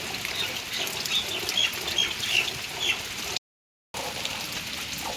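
Steady rain hiss with small birds chirping several times in the first three seconds. The sound cuts out completely for about half a second in the middle.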